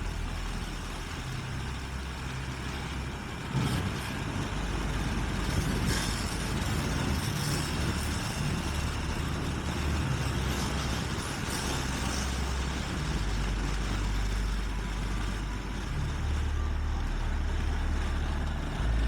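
Motorcycle engine running while riding, with wind noise rushing over the microphone; the engine note steps up and down a few times.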